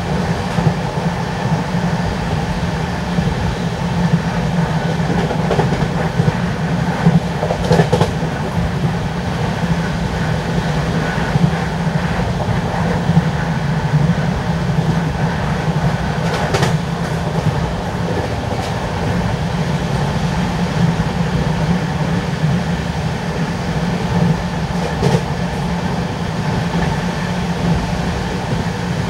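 LHB passenger coaches running on the track at speed: a steady rumble of wheels on rail, with a few sharp clacks scattered through.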